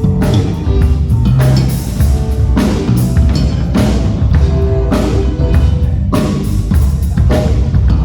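Live band playing an instrumental passage: a drum kit keeps a steady beat under sustained bass and other pitched instrument notes, with no singing.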